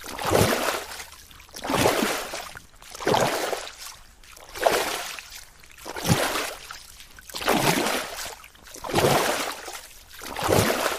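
Water swishing in regular surges, one about every second and a half, each swelling and fading away.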